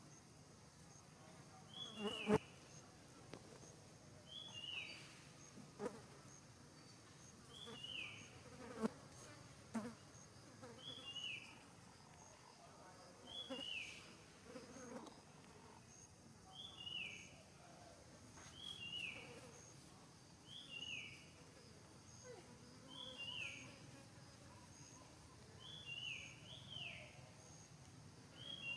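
A short, high, falling two-note animal call repeated about every two seconds, over a faint, steady, high insect buzz, with a few soft knocks.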